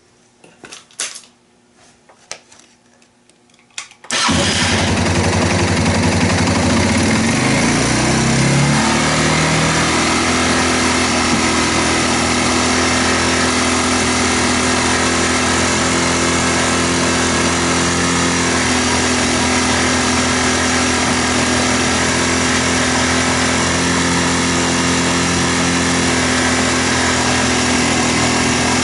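Yamaha TW225's single-cylinder engine started on the electric starter about four seconds in, climbing in pitch over the next few seconds and then running steadily. A few faint clicks come before it starts.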